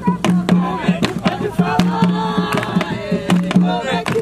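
Jongo drums struck by hand in a steady, driving rhythm, with a group of voices singing or chanting over them.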